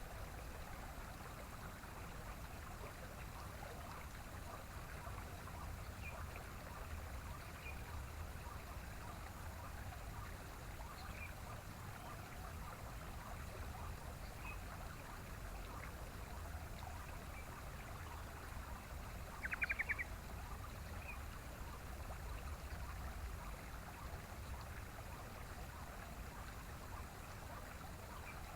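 Steady rush of running water, with faint short bird chirps scattered through it. About two-thirds of the way in, a yellow-vented bulbul (trucukan) gives one brief, rapid chattering call, the loudest sound.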